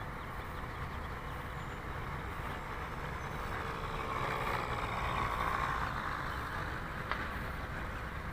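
The RC plane's OS .46 AX glow engine running at low throttle on a landing approach, heard faint over wind and swelling a little about halfway through as the plane comes nearer.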